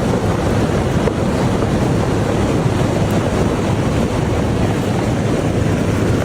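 Fast-flowing floodwater rushing: a steady, loud noise weighted to the low end.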